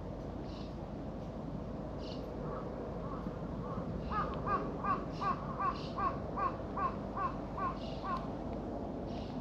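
A bird calling in a run of about a dozen short, clear notes, two or three a second, quickly growing louder and then fading away.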